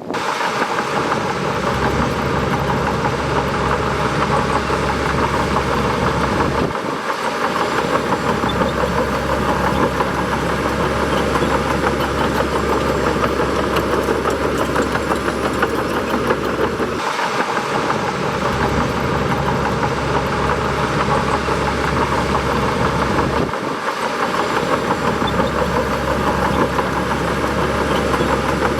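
Bulldozer's diesel engine running steadily at work, a continuous heavy drone that dips briefly three times.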